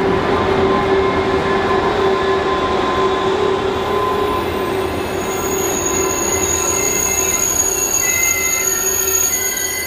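Train moving through a station with a steady hum and a held tone; from about four seconds in, several high-pitched squealing tones join it.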